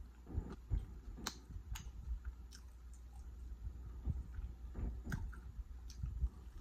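A person chewing a mouthful of ribeye steak, with scattered wet mouth clicks and smacks.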